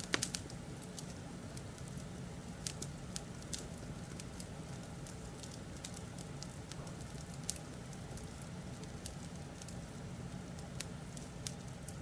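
Fireplace crackling, with irregular sharp pops and snaps over a steady low rumble; the loudest pop comes just after the start, another about seven and a half seconds in.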